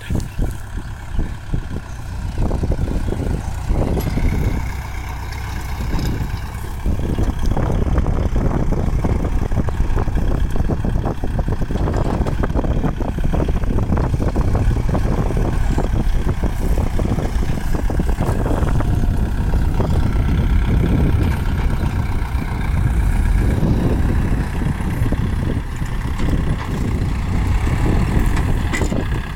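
Kubota diesel tractor engine running steadily, uneven for the first few seconds, then louder and steady from about seven seconds in.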